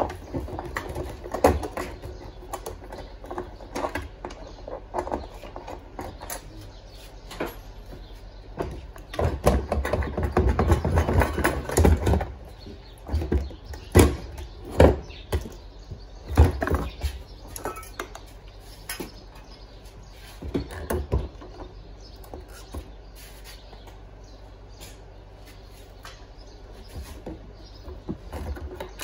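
Irregular knocks and clatter of hard parts being handled, busiest a third of the way in and followed by a few sharp single knocks, over a steady low hum.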